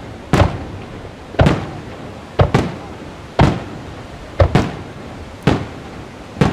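Aerial fireworks going off in a steady run of sharp booms, about one a second, several of them in quick pairs, each with a short echoing tail.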